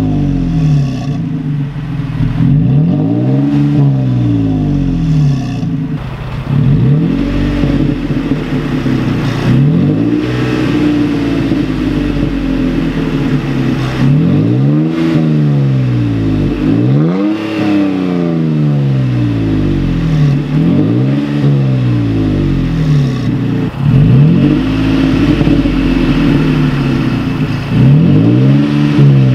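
Toyota Tacoma engine revved repeatedly through an MBRP 3-inch cat-back exhaust with a single exit. The pitch rises and falls again about every two to three seconds.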